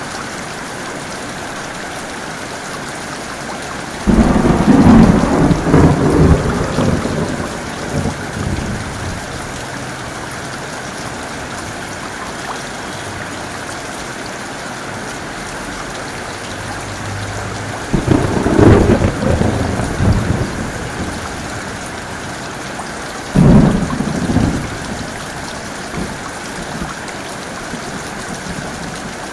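Heavy rain falling steadily, with three claps of thunder. The first breaks suddenly about four seconds in and rumbles on for several seconds, the second comes about eighteen seconds in, and a shorter one follows a few seconds later.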